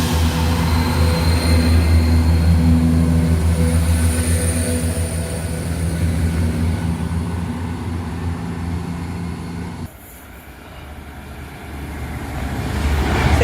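A vehicle running with a steady low engine hum that slowly fades, breaks off suddenly about ten seconds in, then a louder rumble builds near the end.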